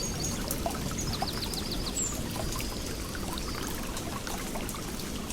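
Steady running water, with small birds chirping over it; a quick run of about six short high chirps comes about a second in.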